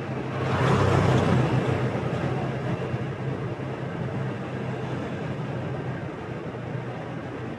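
Motorbike engine running at a steady speed under road and traffic noise. A rush of noise swells about a second in and then fades over the next few seconds.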